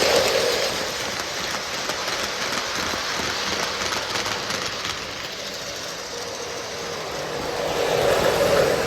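O scale model train running on its track, a steady rolling rumble from the wheels on the rails. It swells as the train passes close at the start and again near the end.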